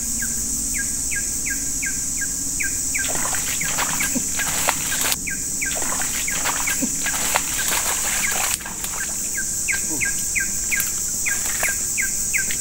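Forest-swamp insects keep up a steady high buzz. A repeated short chirping call, falling slightly in pitch, comes about four times a second at the start and again near the end. In the middle it gives way to a run of irregular clicks and rustles.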